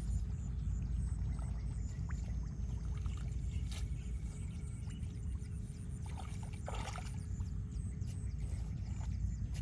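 Water sloshing and splashing over a steady low rumble, with two sharper splashes about four and seven seconds in.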